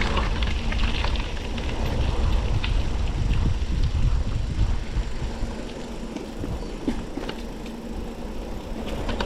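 Mountain bike rolling downhill on a gravel forest road: wind buffeting the microphone over the crunch of tyres on gravel and scattered clicks and rattles from the bike. The wind rumble eases after about five seconds.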